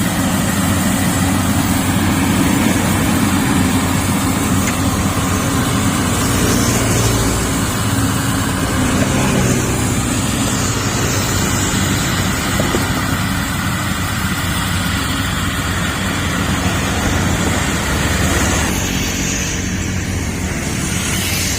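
Yanmar YH850 combine harvester running steadily, its diesel engine and machinery making a continuous loud drone.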